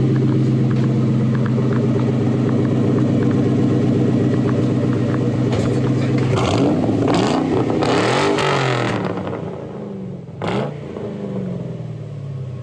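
A New Edge Mustang GT's 4.6-litre two-valve V8, running through a new SLP Loudmouth cat-back exhaust, idles steadily. About six seconds in it is blipped several times, the pitch rising and falling, and then it settles back down. There is a short sharp crack near the end.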